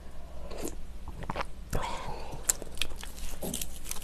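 Close-miked chewing and wet mouth sounds of a person eating a spoonful of rice cake soup, with a scatter of short sharp clicks.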